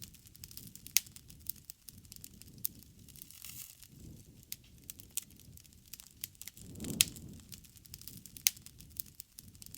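Wood fire burning: irregular crackles and sharp pops over a low rumble of flame, with louder pops about a second in and around seven and eight and a half seconds in.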